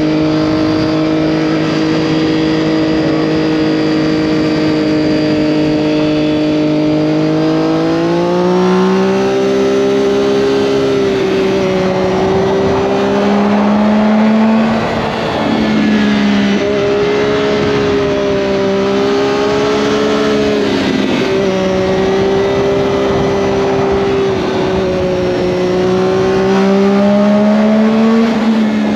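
Triumph Daytona 675's inline three-cylinder engine heard on board while riding. It holds steady revs for about eight seconds, then rises and falls through a series of throttle openings and closings, with a couple of brief drops in revs partway through.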